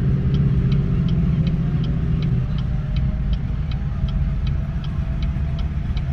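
Car engine idling, heard inside the cabin as a steady low rumble, with the turn-signal indicator ticking evenly at about three ticks a second while the car waits at a light to turn.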